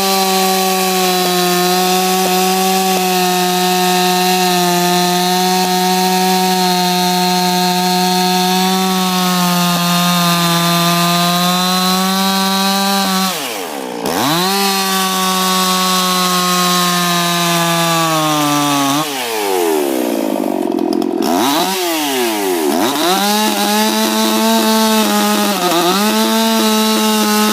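Ported Husqvarna 357 XP two-stroke chainsaw running at full throttle while plunge-cutting into a peeled white pine log, a steady high engine note. About halfway through the revs drop sharply and recover. A few seconds later they fall away and climb back twice, then dip briefly once more near the end.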